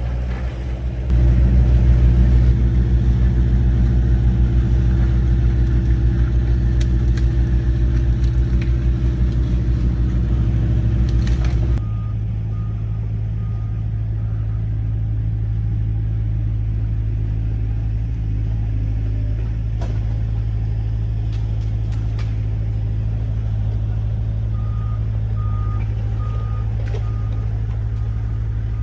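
Engine of an old GMC logging truck running hard, louder from about a second in, then settling to a steadier, lower running about twelve seconds in. A faint beeping repeats a few times.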